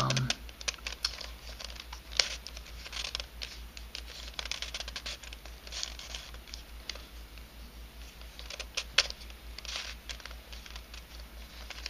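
Irregular clicking and scraping of a 3D-printed nylon helicopter cube puzzle as its pieces are twisted by hand, with sharper clicks about two seconds in and again near nine seconds. A steady low electrical hum runs underneath.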